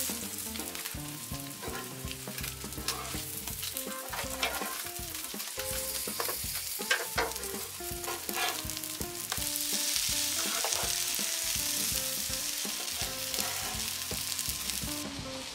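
Egg-battered pollack fillets sizzling in hot oil in a griddle pan. A metal spatula and wooden chopsticks click and scrape against the pan as the pieces are turned and lifted.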